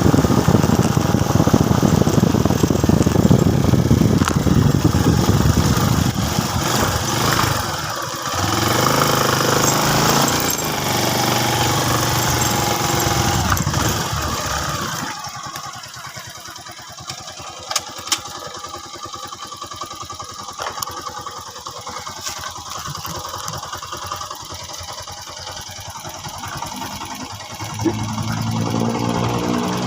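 Motorcycle engine running under way with heavy wind noise, then settling to a steadier lower note. About halfway through, the loud running stops abruptly, leaving a quieter stretch with a few sharp clicks, before an engine sound returns near the end.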